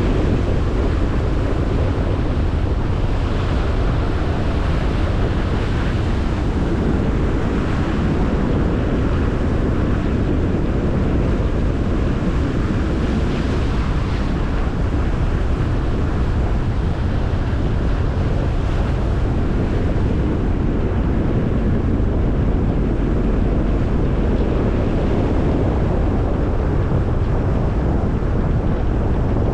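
Steady road and wind noise from a car driving: a constant low rumble with hiss over it and wind buffeting the microphone.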